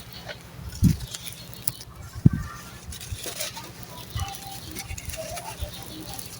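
Dry sand-cement chunks crunching and crumbling, with gritty crackles and two dull thumps, one about a second in and one just after two seconds.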